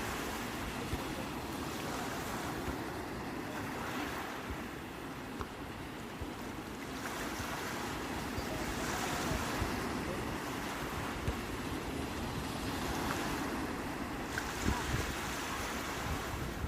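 Sea waves rolling in a continuous wash of surf, swelling louder and easing off every few seconds.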